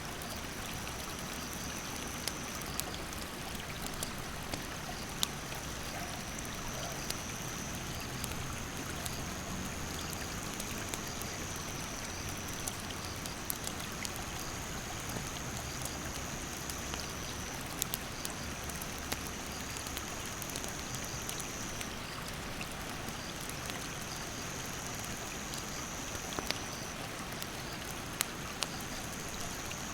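Rushing stream water running steadily, with a wood campfire crackling and giving off scattered sharp pops. A high insect trill comes in repeated phrases a few seconds long with short breaks.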